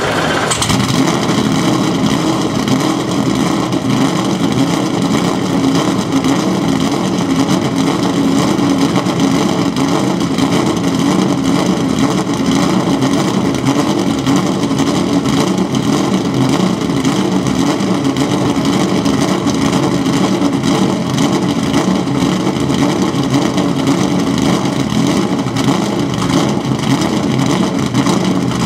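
Corvette Z06 GT3 race car's V8 idling through its race exhaust, just after start-up. A brief flare in the first second settles into a steady, even idle with no revving.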